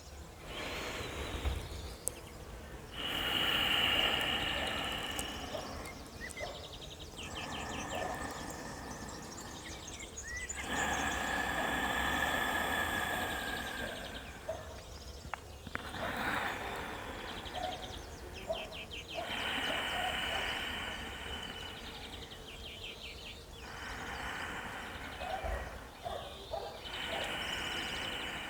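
Birdsong: phrases a few seconds long, with quick trills, repeating about every eight seconds, over a low steady rumble of wind or outdoor background.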